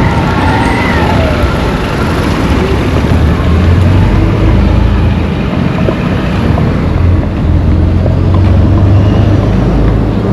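A motor vehicle engine runs steadily amid road traffic noise, with a low hum that grows louder about four seconds in.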